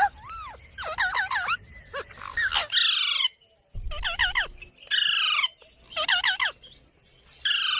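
Green parrots giving a string of short, harsh squawks and chirping calls, several in quick bursts, with a brief pause about three and a half seconds in.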